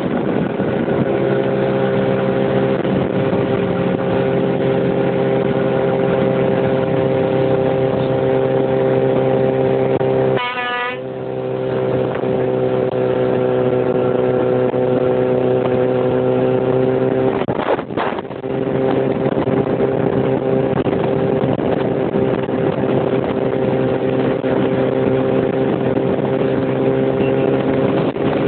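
Motorcycle engine running at a steady speed, its note dipping and breaking off briefly twice, about ten seconds in and again about eighteen seconds in.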